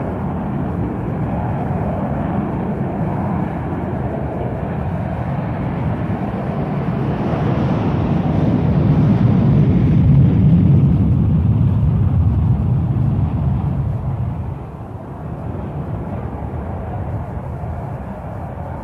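Jet engines of Vulcan and Victor bombers at takeoff power during a scramble, with aircraft going off in quick succession. A tremendous, steady rumble swells to its loudest about halfway through and then eases off.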